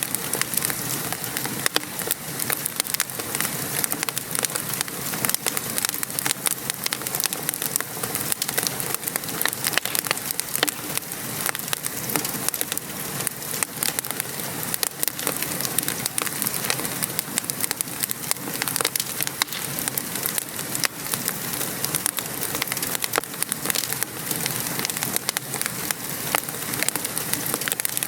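Steady patter of rain mixed with a wood fire crackling, a dense run of small sharp pops and ticks over an even hiss.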